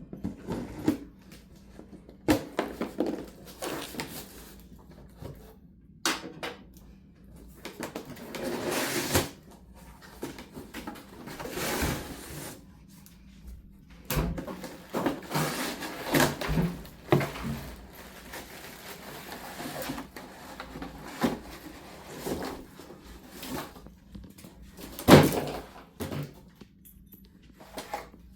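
Cardboard packaging being opened and handled: irregular scraping and rustling of the box, with scattered knocks and bumps as the chainsaw is worked out of it. A sharp knock near the end is the loudest.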